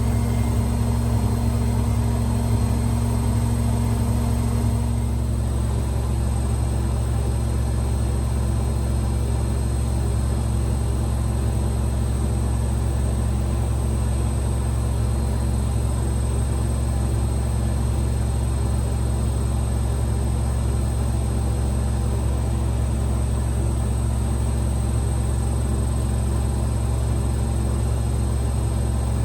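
AEG Lavamat Exclusiv 6469AFL washing machine running, a steady low hum from its drum and motor. A higher tone in the hum drops out about five seconds in.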